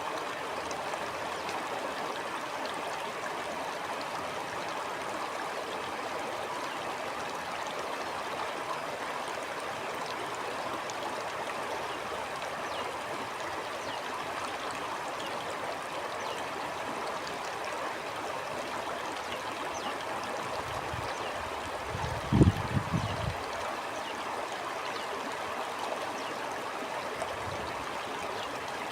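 Stream flowing with a steady rushing, trickling babble. Just over two-thirds of the way through, a brief cluster of low thumps rises above it for about two seconds.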